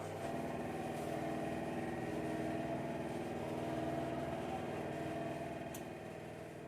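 A vehicle engine running steadily, a low even hum that eases off slightly near the end.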